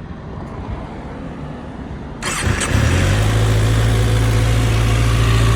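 2025 Kawasaki Ninja ZX-6R's inline-four engine, on its stock exhaust, cranked by the electric starter about two seconds in; it catches within a second and settles into a steady idle.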